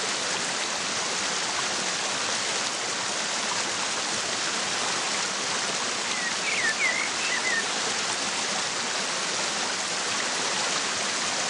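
Waterfall rushing steadily, with a few short bird chirps about six to seven seconds in.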